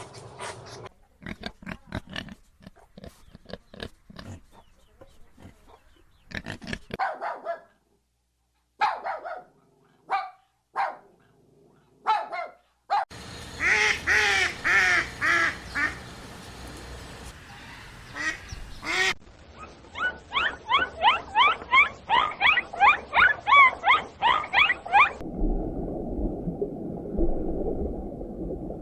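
A run of different animal calls, cut one after another: short sharp calls, then dense repeated calls, then a fast series of chirping calls, ending in a steady rumbling noise.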